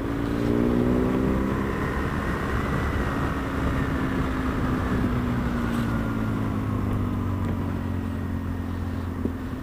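BMW GS adventure motorcycle's engine running under way, with wind noise on the microphone. The engine note rises a little about half a second in, then slowly falls as the bike eases off.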